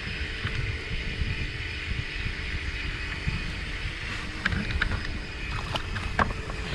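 Wind buffeting the microphone on a small boat at sea, a steady low rumble with a faint constant hum, and a few sharp clicks and knocks in the second half.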